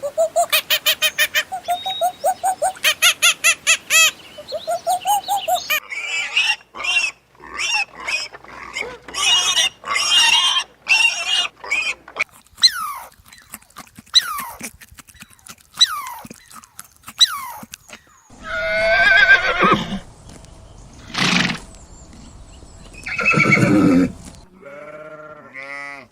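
Animal calls: fast, rapidly repeated cries for the first dozen seconds or so, then a few short falling chirps, then three or four longer harsh calls in the last third.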